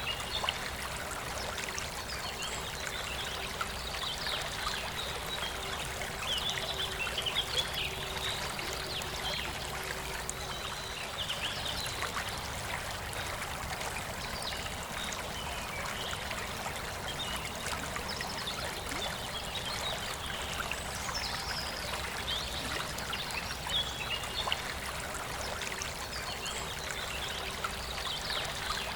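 Forest river flowing steadily, with birds singing short, high chirping phrases on and off throughout.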